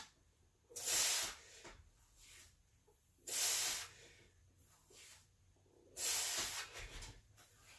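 A lifter's hard, hissing breaths out, three of them at a steady pace about two and a half seconds apart: effort breaths timed with the reps of a set.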